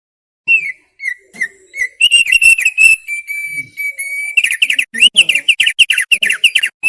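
Thick-billed white-eye (opior paruh tebal) singing: a few separate whistled notes, then a loud run of quick notes with a held trill in the middle and a fast series of sliding whistles near the end.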